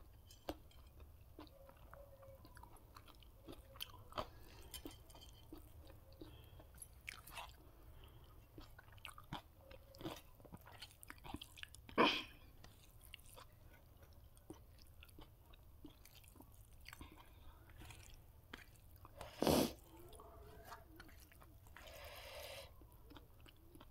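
A person chewing and biting food close to the microphone, eating chicken biryani with sides such as pakoras and salad. Many small wet clicks and crunches, with two louder sharp sounds, one about halfway through and one a little after three-quarters of the way.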